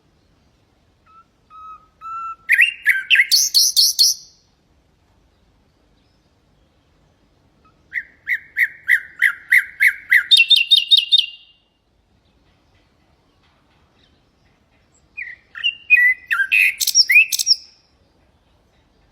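Common nightingale singing three separate phrases with pauses of a few seconds between them. Each phrase is built of rapidly repeated notes; the middle one is a run of about ten even notes followed by a quicker, higher run.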